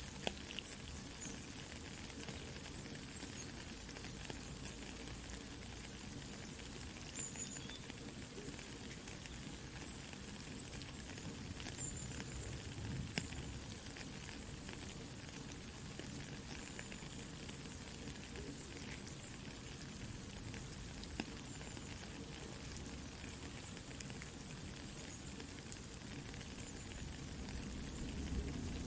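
Soft steady rain together with a crackling campfire: a continuous even hiss with scattered small pops and crackles.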